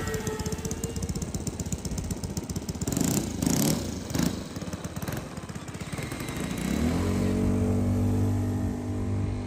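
A small motor running with a fast pulsing, a few loud rushing sounds near the middle, then speeding up about seven seconds in and settling into a steady hum.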